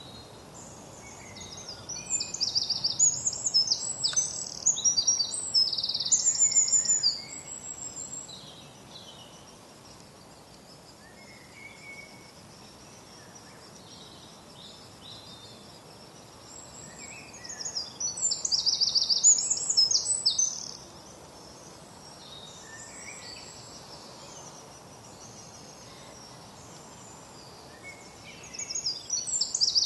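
A songbird singing loud, high, rapid song phrases, three bursts each a few seconds long, with fainter bird calls between them over a steady outdoor background noise.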